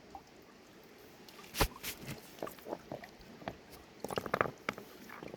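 River stones clicking and knocking against each other in scattered, irregular strikes, with one sharp loud knock about a second and a half in and a quick flurry of clacks near the end.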